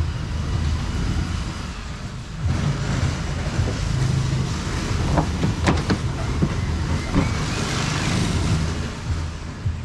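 A vehicle engine running with a steady low rumble. A few sharp clicks or knocks come about halfway through.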